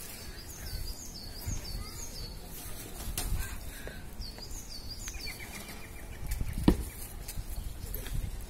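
Small bird calling: two runs of quick, high chirps, then a short rapid trill about five seconds in, with a sharp knock just before the seventh second.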